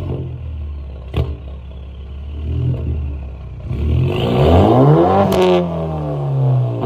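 Straight-piped exhaust of a 2014 BMW 320i's N20 turbocharged four-cylinder, with no mufflers or resonators and a catless downpipe. The engine is revved: it falls back from a rev, settles low, then climbs in one rev and drops again. Sharp cracks come about a second in and at the top of the rev.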